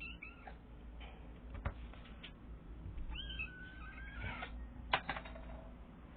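A tiny, skinny kitten meowing twice: a short high meow at the start and a longer wavering one about three seconds in. A few sharp clicks or taps come between, the loudest about five seconds in.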